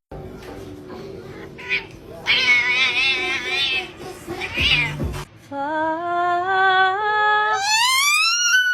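A cat yowling about two seconds in, its pitch wavering. It is followed by a long drawn-out call that climbs in steps and then glides higher near the end.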